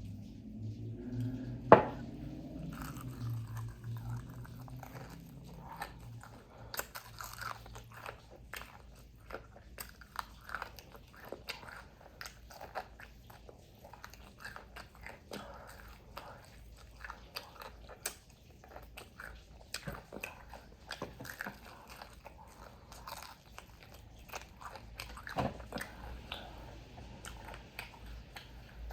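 Close-up chewing and biting of crispy fried food (lumpia-wrapped chicken wingettes and fries), with irregular crunches and wet mouth clicks, and one sharp click about two seconds in.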